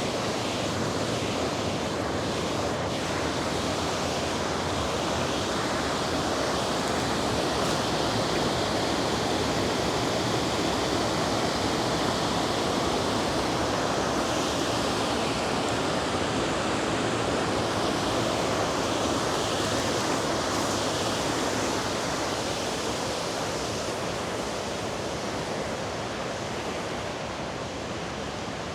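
A river's rushing water, a steady full roar that eases slightly near the end.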